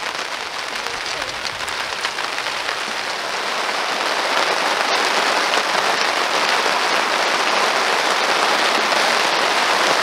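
Steady rain falling, growing heavier from about four seconds in.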